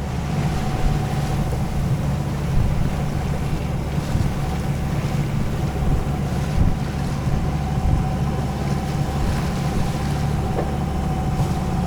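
Sailboat under way at sea: a steady low drone with wind and water noise over it.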